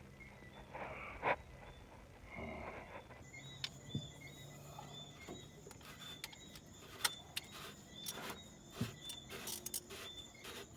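Scattered light clicks and clinks of hand tools on metal, from work on a tractor's injection pump and its lines. A steady high-pitched tone comes in about three seconds in.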